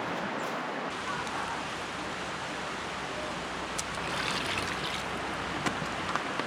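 Steady rushing of creek water, with a few light clicks in the second half.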